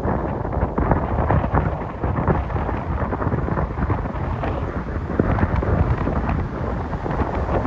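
Strong storm wind gusting over the microphone: a loud, continuous rumbling buffet with many crackles and thumps.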